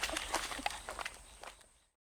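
Footsteps of people walking on a road, a quick run of steps fading away, with a steady high insect trill behind them; the sound cuts off about a second and a half in.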